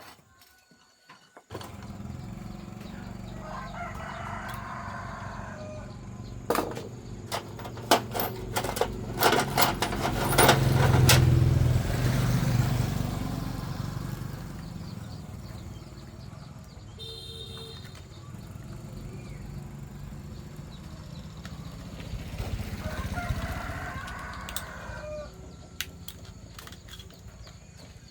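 A rooster crowing twice, about four seconds in and again near the end, over a steady low machine hum. In the middle come a run of clicks and knocks and a louder low swell.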